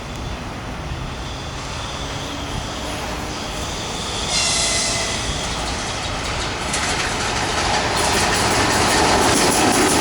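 Passenger train hauled by two EP1M AC electric locomotives running past on the rails, growing steadily louder as it comes on. About four seconds in, a high ringing tone with several pitches lasts about two seconds.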